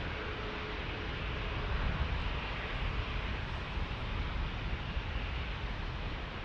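Jet airliner engine noise: a steady rushing hiss over a low rumble.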